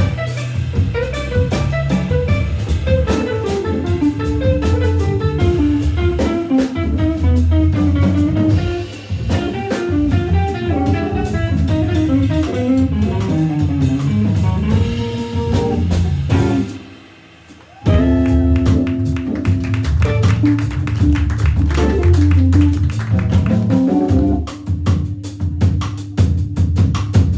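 Jazz organ trio playing live: fast single-note guitar runs over a Hammond B3 organ bass line and a drum kit. About 17 seconds in the band drops out almost completely for a moment, then comes back on a held chord, and the drums grow busier near the end.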